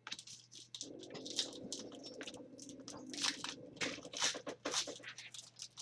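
Trading cards and foil pack wrapper being handled: a quick run of crisp crackles, snaps and crinkles as the cards are flipped through.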